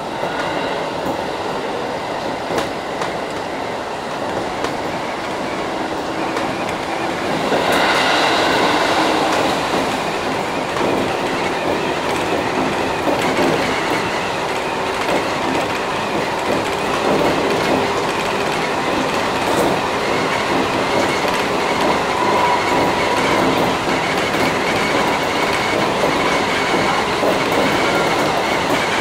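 Seibu 3000-series electric train running, heard from inside the leading car: steady wheel-on-rail noise with rail-joint clatter. It grows louder for a couple of seconds about eight seconds in, with several ringing tones over the noise.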